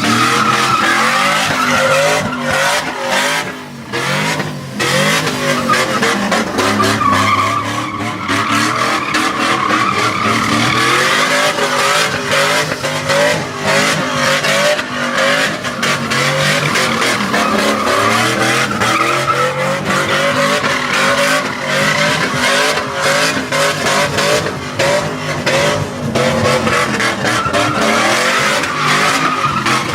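A truck engine running at high revs while its tyres spin and squeal without a break, as in a burnout. The squeal wavers in pitch throughout.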